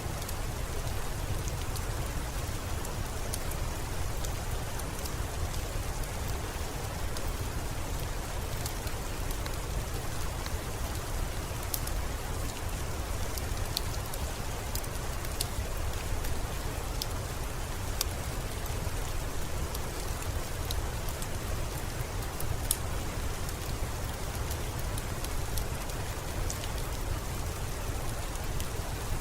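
Steady rain with a deep, even rumble underneath, and scattered small sharp crackles of a wood fire throughout.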